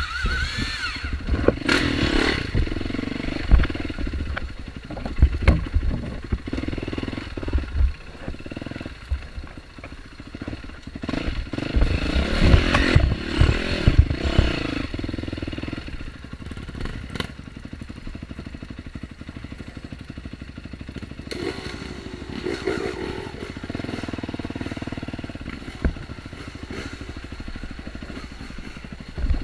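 Dirt bike engine running on a trail, revving up and easing off in turn, with scattered knocks and clatter.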